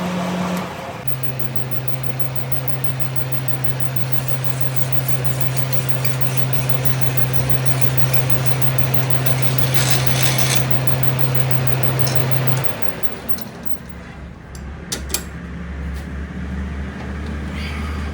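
A machine runs with a steady drone and stops about twelve seconds in. A lower hum and a few sharp clicks follow.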